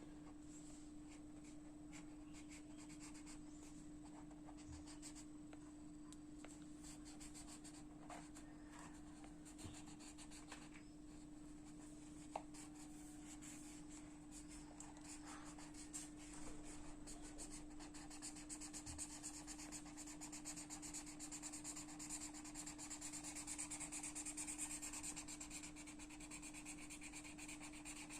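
Rapid back-and-forth strokes of colouring on paper, a soft scratchy rubbing that becomes denser and louder about halfway through. A steady low hum runs underneath.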